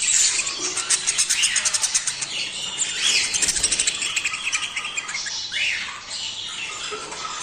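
Budgerigars chattering: a dense run of fast clicking warble, with short chirps and squeaky calls sliding up and down in pitch. This is the excited chatter of budgies in breeding condition.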